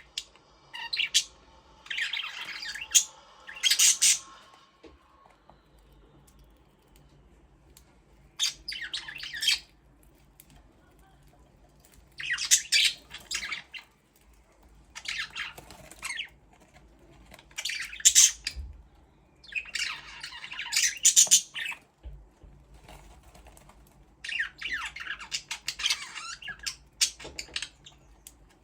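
Budgerigars chirping in bursts of one to two seconds, about eight times, with short quiet gaps between them.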